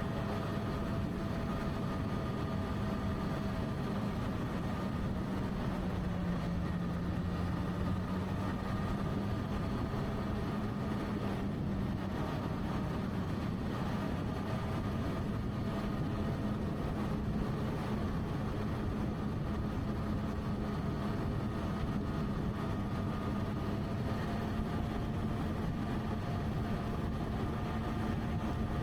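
Motorcycle engine running at a steady cruising speed, with wind and road noise. The engine note dips slightly about six seconds in, then climbs back.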